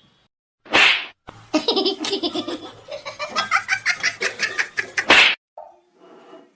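A person laughing hard in a quick run of bursts for about four seconds, ending with a loud burst, after a short sharp breath about a second in.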